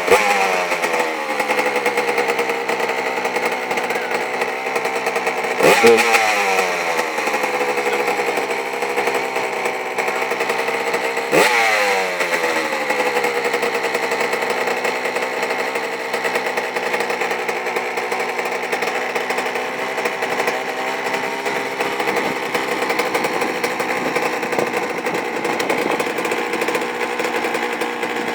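1999 Suzuki RM80's two-stroke single-cylinder engine running just after a cold start without choke. It is blipped three times, at the start, about six seconds in and about eleven seconds in, and each rev falls back to a steady idle.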